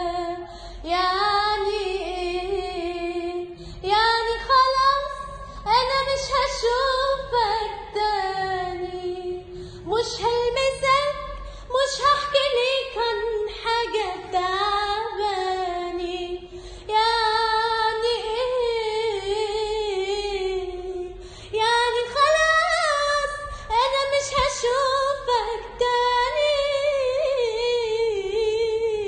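A high voice singing an Arabic song, unaccompanied, in long drawn-out melodic phrases with wavering, ornamented held notes broken by short breath pauses.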